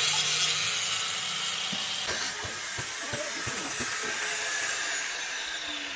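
A steady rasping, scraping sound, like a tool working a workpiece, easing off about two seconds in and followed by a quick series of light knocks.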